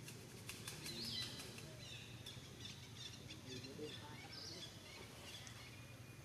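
Faint, scattered high bird chirps over steady outdoor background noise, with a few light clicks about half a second in.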